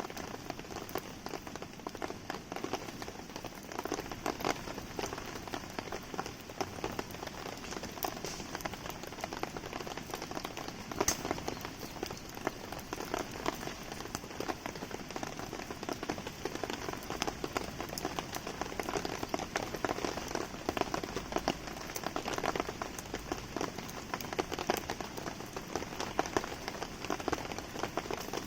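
Steady rain pattering, with short sharp pops and crackles from a wood campfire scattered through it.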